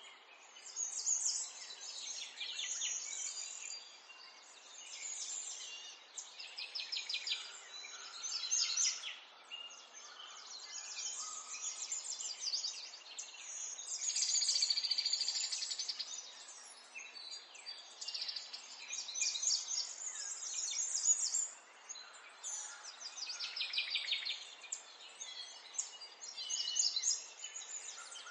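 Small birds singing: rapid high trills and chirps, one phrase after another.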